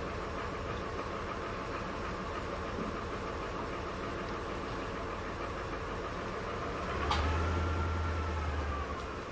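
A motor running with a steady drone. About seven seconds in there is a click, then a louder low hum with a whine that rises and falls for about two seconds before it drops back.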